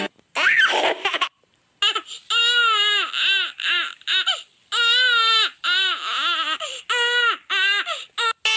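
High-pitched crying: a string of short wails that rise and fall, with brief gaps between them, starting about two seconds in.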